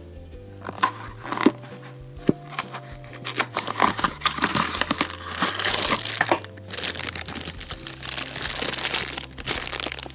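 Thin plastic wrapping crinkling and tearing in irregular bursts as a candy-toy package is opened by hand, over steady background music.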